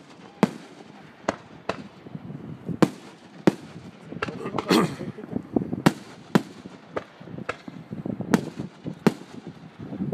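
Fireworks going off: about a dozen sharp bangs at uneven gaps of half a second to a second, with a burst of crackling a little before the middle.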